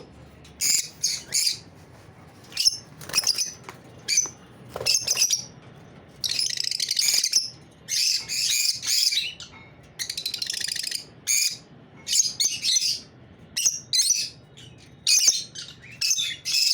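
Lovebirds chirping: a string of short, shrill chirps in irregular bursts, with a few longer, buzzy calls.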